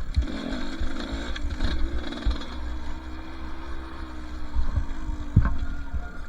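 Two-stroke dirt bike engine running at low revs, its pitch sagging slightly over a few seconds, with low thumps and rumble on the microphone.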